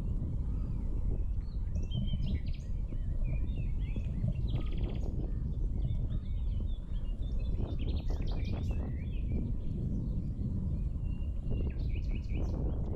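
Several small birds chirping and twittering, with a brief buzzy trill about five seconds in. The birds sit over a steady low rumble.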